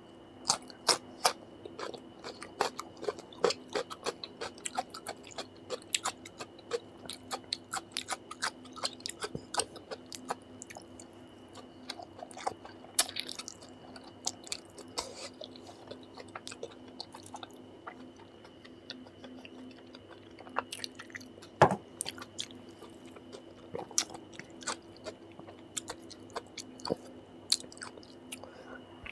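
Close-miked mukbang chewing: a man eating spicy meat curry and rice by hand, with many quick wet mouth clicks and smacks and the odd crunch. One sharper crack comes about two-thirds of the way through. A faint steady hum runs underneath.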